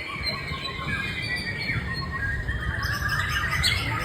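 White-rumped shama singing a continuous, varied song of quick whistled notes and chirps, over a low rumble.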